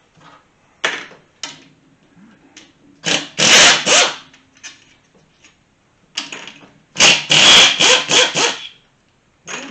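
Chicago Pneumatic air tool with a 10mm socket running in two short bursts, about three seconds in and again about seven seconds in, spinning out engine bolts. A few light clicks of metal come before the first burst.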